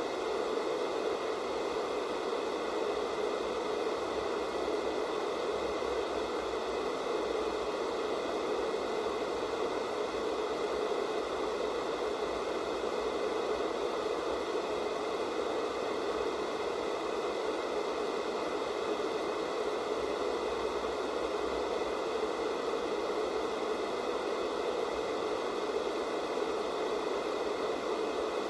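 Analog television static on a channel with no signal: a steady, unchanging hiss.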